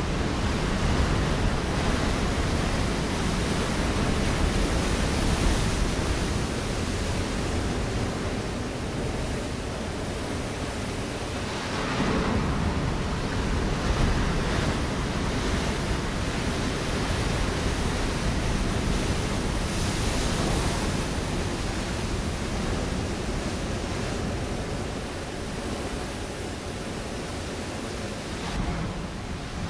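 Ocean waves breaking on a rocky shore: a continuous wash of surf that swells and ebbs, with the biggest wave breaking about twelve seconds in.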